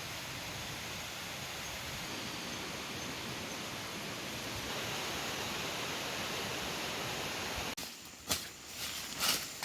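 Steady rushing hiss that cuts off abruptly near the end, followed by a few sharp clicks or taps.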